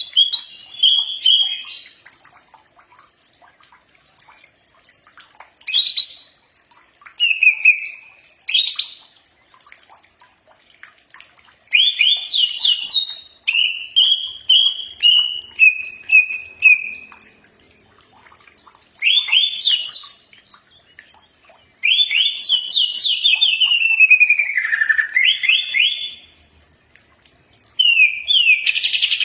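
Green leafbird (cucak ijo) singing in phrases of rapid chirps and sliding, falling whistles, each phrase a second to a few seconds long with short pauses between, about seven times over.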